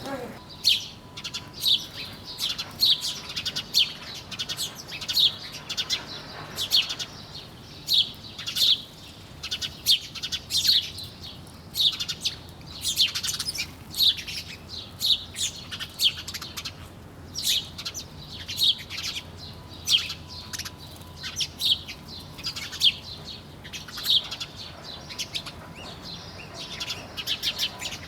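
Small birds chirping busily: short, sharp, high chirps come one or two a second, overlapping at times.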